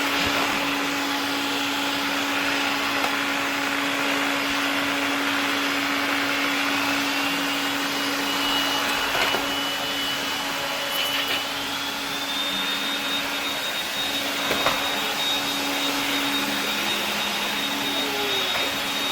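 Cordless stick vacuum, converted to a brushless motor, running steadily: a hum under a high motor whine that sits slightly lower, then rises in pitch about twelve seconds in.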